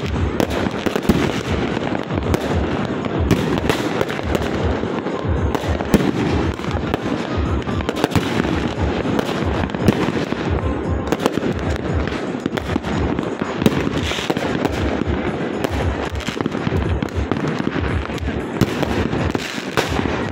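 Fireworks going off in a dense, continuous barrage of sharp bangs and crackles, with several louder booms standing out.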